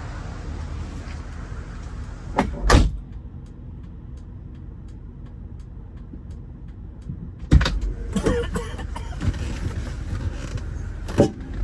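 Car running with a steady low engine and road rumble, broken by a few loud thumps, and a faint even ticking in the middle.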